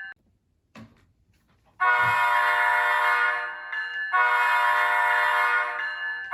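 A modern diesel-locomotive air horn sample played by an ESU LokSound 5 DCC sound decoder. After a pause of almost two seconds it sounds two long, steady chord blasts, separated by a brief dip.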